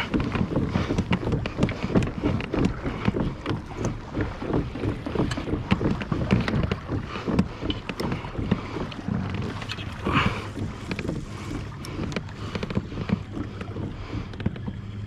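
Water splashing and lapping against a kayak hull in quick, irregular slaps, with wind buffeting the microphone.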